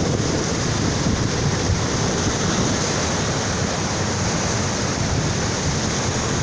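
Ocean surf washing steadily onto a beach, a continuous rush of noise with no single wave crash standing out, with wind buffeting the microphone.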